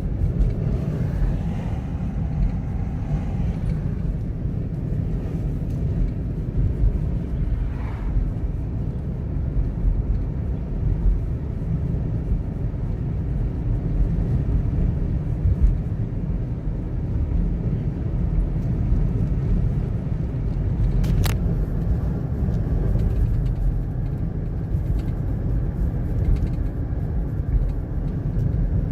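Car cabin noise while driving: a steady low rumble of engine and tyres on the road, with one short click about twenty seconds in.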